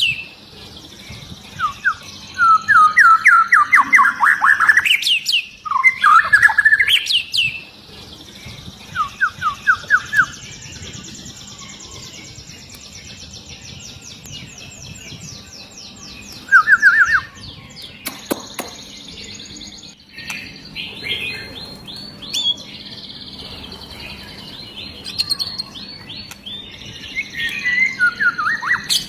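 White-rumped shama singing: loud bursts of rapid-fire repeated notes in the first ten seconds and again briefly about 17 s in, with quieter high trills in between. A single sharp click about 18 s in.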